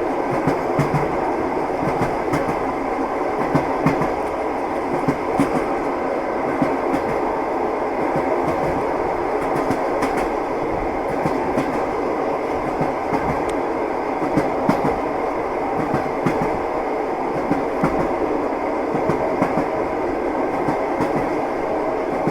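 Train running steadily, its wheels knocking over the rail joints: a continuous rumble with repeated short clacks.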